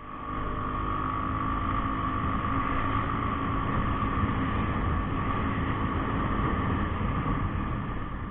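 A vehicle engine running at a steady speed, with a steady high whine over its rumble, fading in at the start and fading out at the end.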